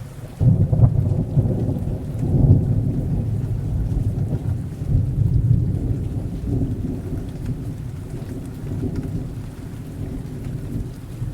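Thunder rolling over steady rain. The low rumble swells up within the first second, peaks again about two and a half seconds in, then slowly fades while the rain carries on.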